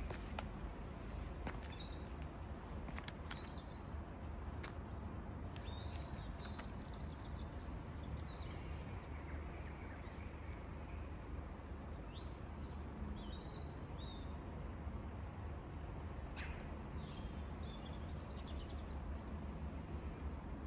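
Small birds chirping off and on over a steady low background rumble; the loudest chirps come near the end.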